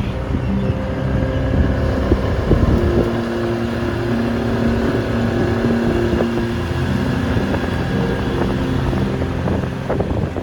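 A motor vehicle's engine running steadily on the move, its pitch shifting in steps now and then, with wind rumbling on the microphone.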